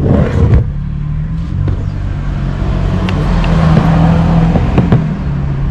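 An engine running steadily, with a hum that swells toward the middle and eases off, and a few light clicks.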